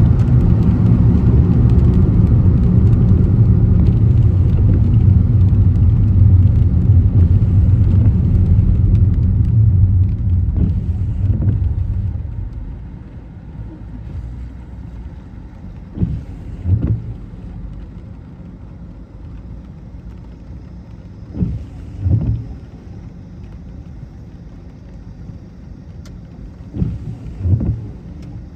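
Car road noise: a loud, steady low rumble of tyres and drivetrain that fades as the car slows, about a third of the way in. Then three double thumps as the wheels cross bumps in the road.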